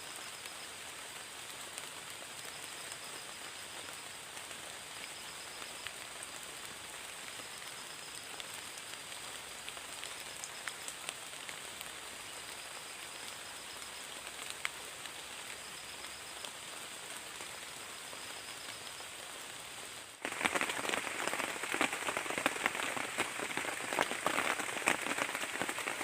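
Steady rain falling, with scattered individual drops ticking. About twenty seconds in it turns abruptly louder and denser, a heavy close patter. A faint high tone pulses every second or two throughout.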